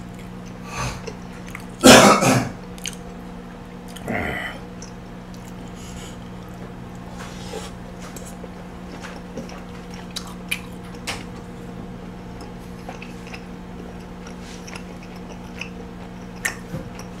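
A person chewing a mouthful of beef bulgogi, with soft wet mouth clicks. About two seconds in there is a loud, brief throat-clearing burst, and a shorter one comes around four seconds.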